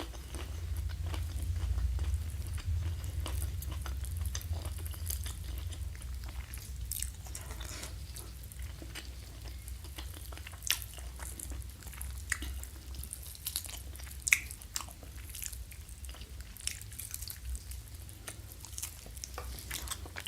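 Close-miked chewing of crispy fried quail, with scattered sharp crunches and mouth clicks throughout.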